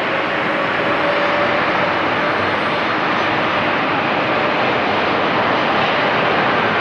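Airliner engines running with a loud, steady roar.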